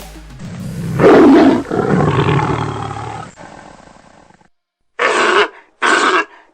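A large animal roaring: one long roar about a second in that fades away, then after a silence three short roars in quick succession near the end.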